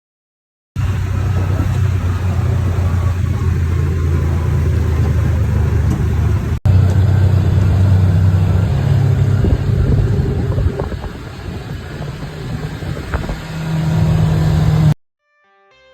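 Motor vehicle engine running loud under way, its low drone shifting in pitch, with a brief break about six and a half seconds in. It revs higher near the end, then cuts off suddenly.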